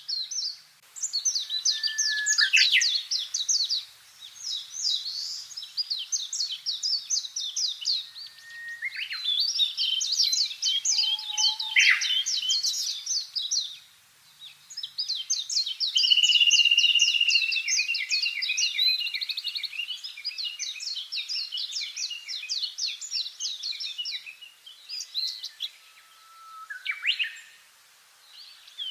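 Songbirds singing in high, fast trills of quickly repeated notes, phrase after phrase with short pauses between, at times two songs overlapping.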